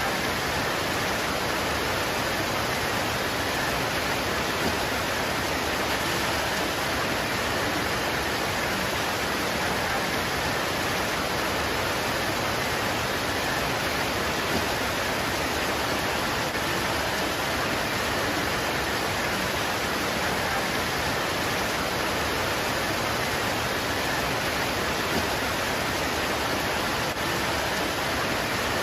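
Rain pouring steadily on leaves, an even hiss that never lets up.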